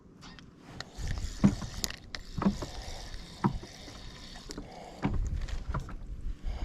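Irregular knocks and bumps with low rumbling: handling noise in a small fishing boat. There are roughly one knock a second, starting about a second in.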